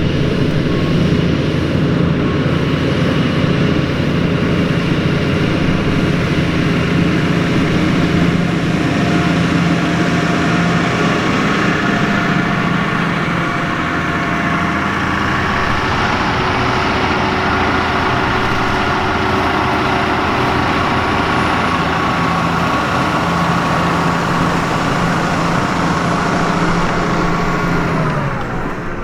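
New Holland T7.245's six-cylinder NEF diesel engine running steadily under load while pulling a five-furrow plough. Near the end the engine note drops in pitch.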